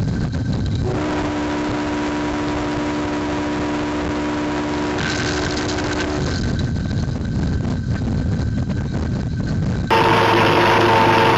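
Train horn sounding one long chord of several steady notes over the rumble and clatter of a passing train, which then runs on alone. Near the end, after an abrupt change in the sound, another horn chord begins.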